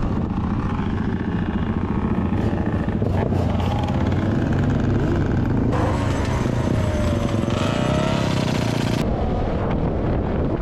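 Motorcycle engine running as the bike is ridden, steady throughout, with a brighter, harsher stretch from about six to nine seconds in.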